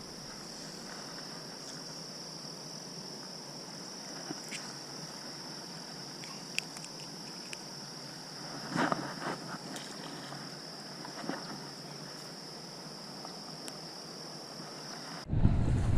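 Steady high-pitched chirring of insects, with a few soft handling rustles and clicks midway. Near the end it cuts off abruptly and loud wind buffeting on the microphone takes over.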